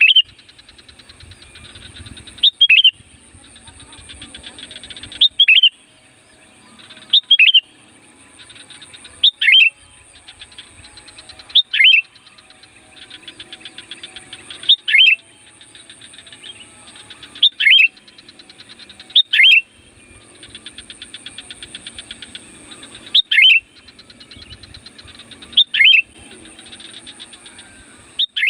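Sooty-headed bulbul (kutilang) calling loudly: a short, sharp falling note repeated about every two seconds, with a faint rapid chatter between the calls and a steady faint high-pitched buzz behind them.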